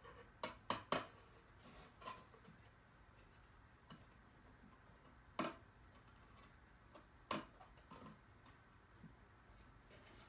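Sharp knocks and taps of cedar boards being handled and fitted together: a quick run of three near the start, then single knocks about two, five and seven seconds in.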